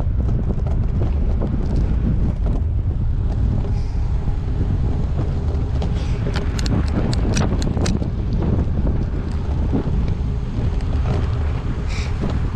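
Wind rushing over a GoPro Hero8 microphone on a moving gravel bike, a steady low rumble, with a run of short clicks and rattles from the bike about six to eight seconds in.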